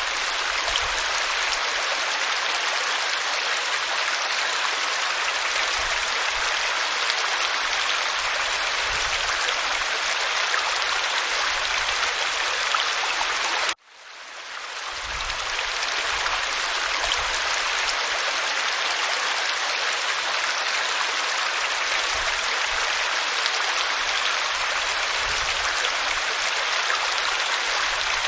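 Waterfall pouring over rock, a steady rush of falling water. About halfway through it cuts out abruptly and fades back in over a second or two.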